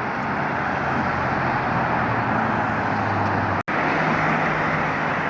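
Car engine running with steady road and traffic noise, a low even hum under a broad rush. The sound cuts out for an instant about three and a half seconds in, then resumes the same.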